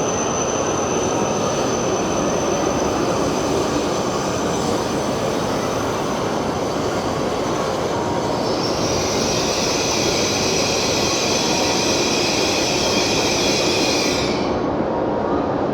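W7 series shinkansen train running slowly alongside the platform as it arrives, a steady rush of wheel and running noise. A high squeal of several tones, typical of wheels and brakes, joins in about halfway and breaks off near the end.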